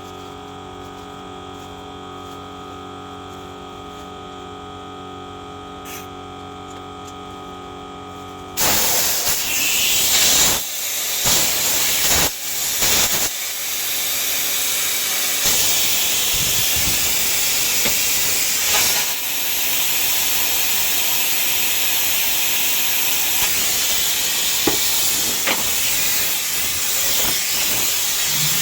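Pressure washer running with a steady hum, then, about eight and a half seconds in, its jet spraying into the engine's fuel tank: a loud hiss of water with uneven surges and dips, flushing rust out of the blocked tank.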